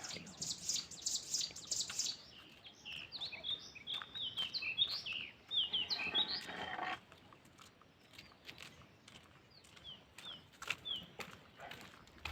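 Small birds chirping. Quick high repeated notes come first, then a busy run of short falling chirps that thins out after about seven seconds, with a few more chirps later.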